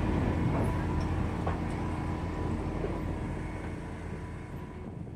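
California Western Railroad (Skunk Train) passenger train rolling slowly on the rails: a steady low rumble with a few faint clicks, fading away near the end.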